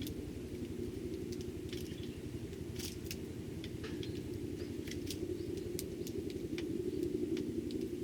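A steady low hum, like an engine or road traffic, runs throughout. Scattered short ticks and clicks sound over it, a few each second, as tree sparrows feed.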